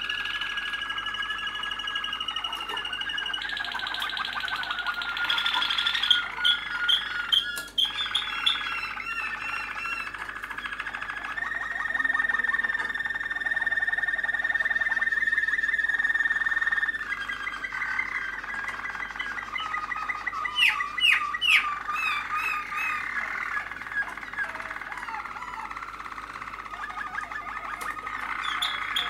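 Malinois (Waterslager) canary singing a continuous song of rolling trills and held tones that shift to a new phrase every few seconds, with a run of quick falling, water-like notes about two-thirds of the way through.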